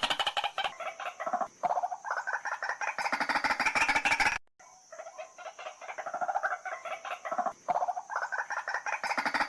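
White-breasted waterhen calling: fast, rhythmically pulsed croaking phrases repeated one after another, broken by a brief gap about four and a half seconds in. A recorded call of the kind played to lure waterhens in.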